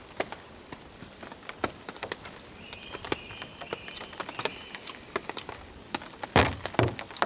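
Rain pattering on a tent and tarp, heard from inside: a steady hiss with scattered drops tapping irregularly. There is a louder knock about six and a half seconds in.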